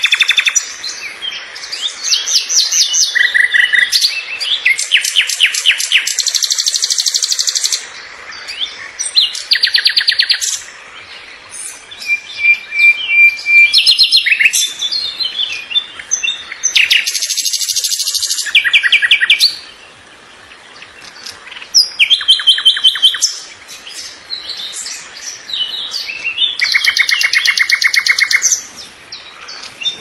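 Birds chirping and singing: a run of phrases made of quick repeated notes and trills, each lasting a second or two with short pauses between them, and one steady held whistle about twelve seconds in.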